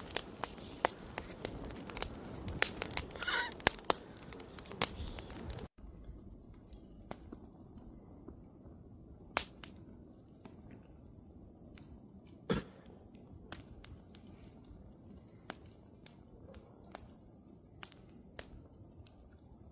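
Campfire crackling: burning wood snapping and popping in sharp, irregular clicks. Dense and louder for the first six seconds, then after a sudden break it thins to quieter scattered pops, with two louder pops about nine and a half and twelve and a half seconds in.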